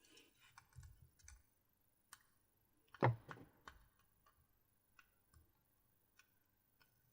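Scattered light clicks and taps from handling a GoPro Hero 4 Silver camera and its packaging, with one louder knock about three seconds in.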